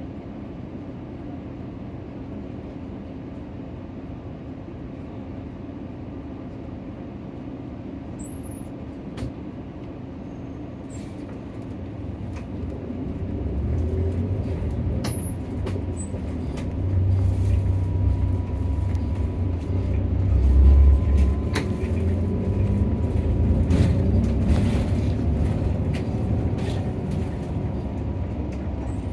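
Cabin noise of a Nissan Diesel (UD) city bus: a steady low engine and road rumble that grows clearly louder about twelve seconds in and stays loud, with a few sharp clicks and rattles.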